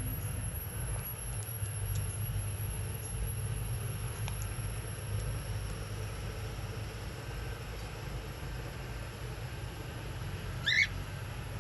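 Steady low hum, with one short, loud cockatiel chirp near the end.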